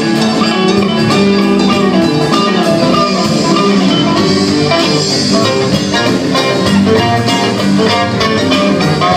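Live band playing an instrumental passage with guitar to the fore.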